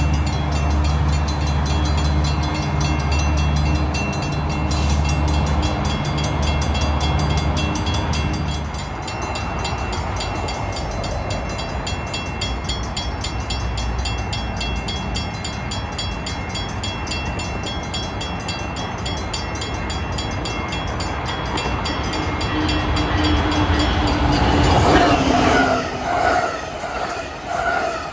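Passenger trains passing: a diesel locomotive's engine runs deep and steady for about the first eight seconds, then wheel and rail noise rushes on. Near the end a train horn sounds in several short blasts.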